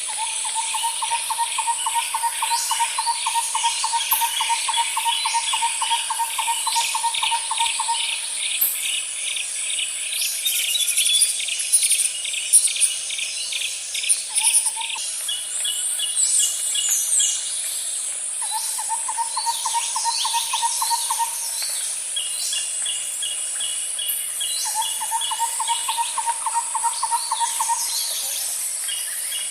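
Nature ambience of insects and birds: a steady high insect drone, a low pulsing trill that comes in for a few seconds three or four times, rapid chirping series and scattered short bird calls.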